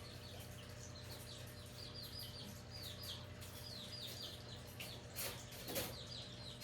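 Small birds chirping over and over in quick runs of short, high, falling notes. Two brief knocks sound about five and six seconds in.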